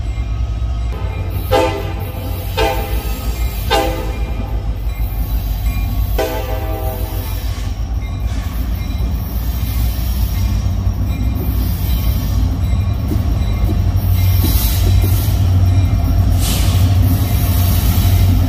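Union Pacific freight train's locomotive horn sounding three short blasts and then a longer fourth, over the steady rumble of the passing train. The rumble grows louder, with high wheel screech from the cars near the end.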